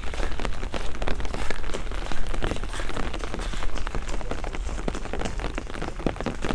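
Steady rain falling, with a dense spread of close drop impacts ticking over a low rumble.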